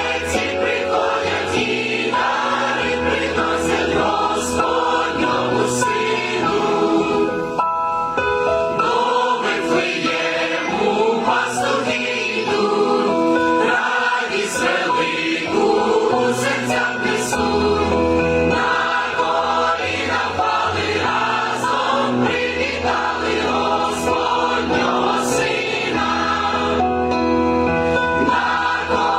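A choir singing a Ukrainian Christmas carol with instrumental backing: a bass line and light percussion.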